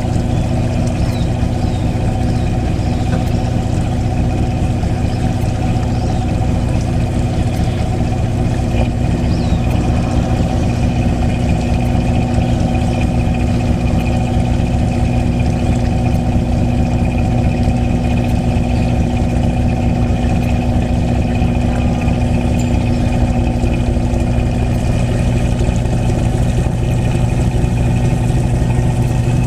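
Harbour tour boat's engine running steadily at low revs: a constant low hum with a fixed tone that holds unchanged throughout.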